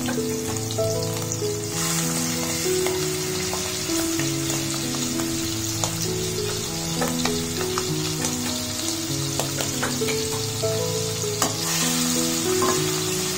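Prawns frying in hot oil in a steel pot: a steady sizzle with scattered pops and crackles. Soft background music with held notes plays underneath.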